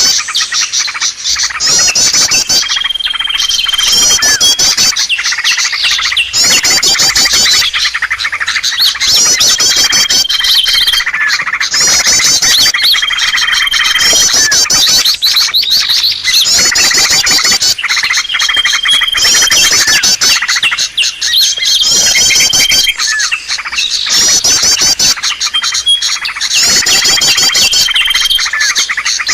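Bird-lure recording of small birds, many chirping and twittering calls packed close together, with a short high steady whistle repeating every two to three seconds.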